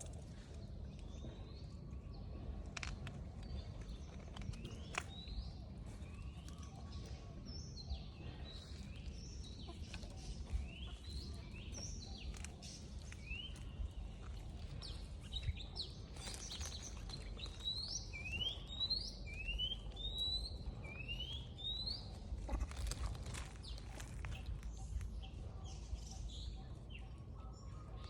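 A bird chirping repeatedly in short rising notes, about one a second at its busiest in the second half, over a steady low rumble of outdoor background noise.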